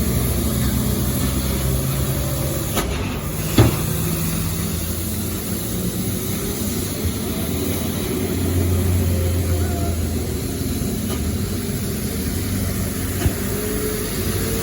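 Large truck engine running low and steady. The drone grows louder and deeper for a stretch after about eight seconds, with a single sharp knock about three and a half seconds in.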